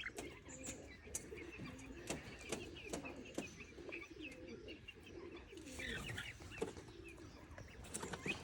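Faint high peeping of ducklings, many short chirps over and over, with soft low warbling calls and scattered light clicks.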